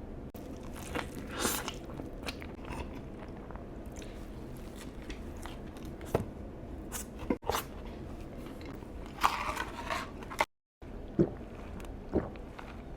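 A person biting and chewing Chick-fil-A food, with crunchy bites at irregular moments. The sound drops out to dead silence for a moment about ten and a half seconds in.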